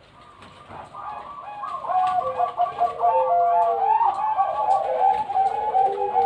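Several zebra doves (perkutut) cooing at once, their calls overlapping, softly at first and then loud and continuous from about two seconds in.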